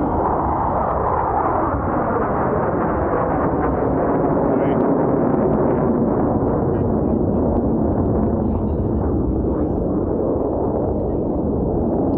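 Blue Angels F/A-18 Super Hornet jets roaring past in formation, the pitch falling in the first couple of seconds as they go by, then a steady loud jet roar.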